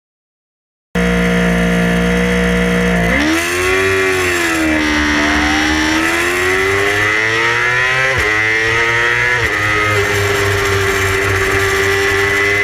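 Yamaha R6 600 cc inline-four sport-bike engine starting about a second in: held at steady revs, then dipping and climbing in pitch as the bike pulls away under throttle, with two quick upshifts near the end and steady running after.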